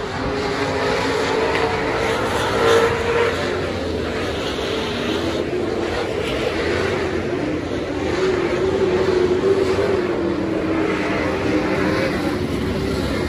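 Super stock race car engines running at racing speed, their pitch wavering up and down.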